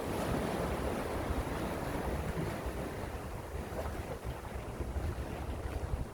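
Gentle sea waves washing on the shore, a surge that swells in the first couple of seconds and then eases. Wind buffets the microphone with a low rumble.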